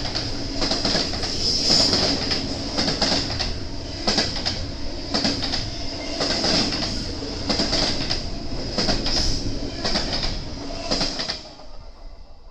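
BNSF intermodal freight train rolling past, its wheels clacking over rail joints again and again over a steady rumble and a high ringing whine; the sound fades away quickly near the end as the train goes by.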